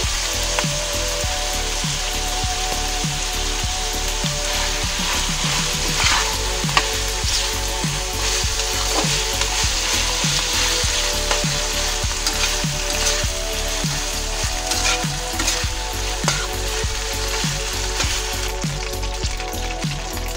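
Ham, mushrooms and ground pork sizzling in a wok as condensed cream of mushroom soup is stirred in with a ladle, the ladle now and then scraping the pan.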